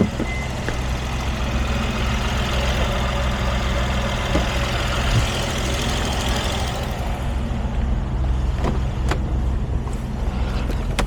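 Mercedes Sprinter's OM642 3.0-litre V6 diesel running steadily, with a hiss over the engine note that fades about seven seconds in.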